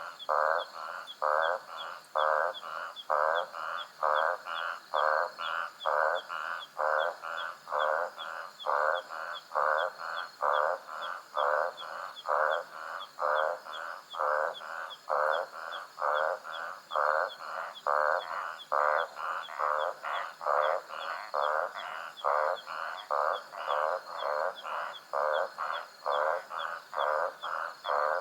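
A night animal call repeated steadily, about two short calls a second, over a faint fast high ticking and a steady faint high tone.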